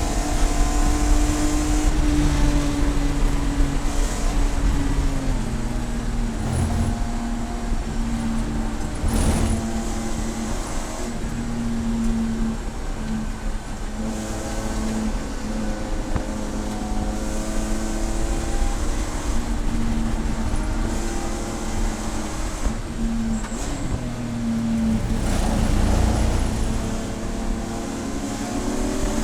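Race car engine running hard, its pitch stepping and sliding up and down again and again as the car accelerates, shifts and slows.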